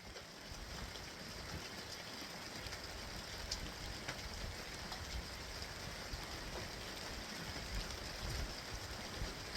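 Steady rain falling outside, an even hiss with a few faint drop ticks.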